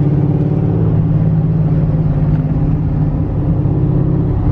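A car driving at a steady speed: its engine runs at an even pitch over a low rumble of road noise.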